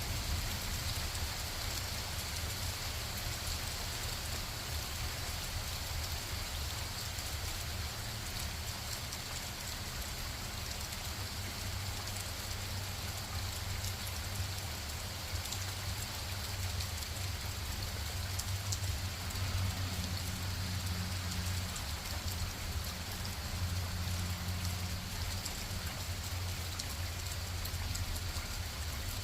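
Steady rain falling, with a low rumble underneath that grows louder about two-thirds of the way through.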